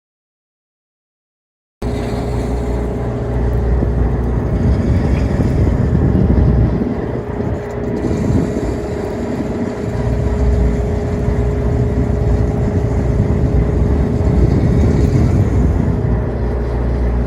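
Silence for about the first two seconds, then a boat's engine running steadily under way, a loud, even drone with a steady hum through it.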